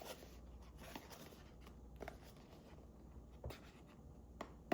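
Faint scratching and a few small, irregular clicks and taps as fingers work at a small cardboard drone-battery box, easing it open with its tamper tag.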